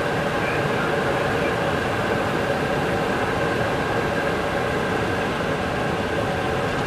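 Steady in-flight noise inside a McDonnell Douglas MD-11 airliner: an even rush of air with a constant engine hum and a few steady tones.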